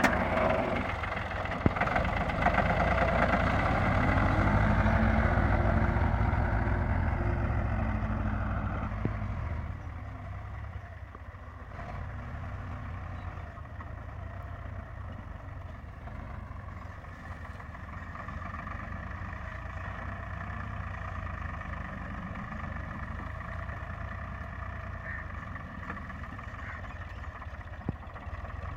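Ford 3000 tractor's three-cylinder engine running steadily, louder for the first nine seconds or so, then quieter and even.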